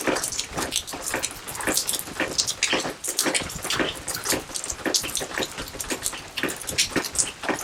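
Rain and a small garden fountain splashing and dripping into a fish pond: a dense, irregular patter of drips and splashes, several a second.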